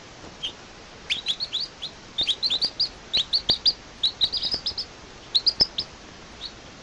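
Baby bird chirping: quick runs of short, high, rising cheeps, over a steady background hiss.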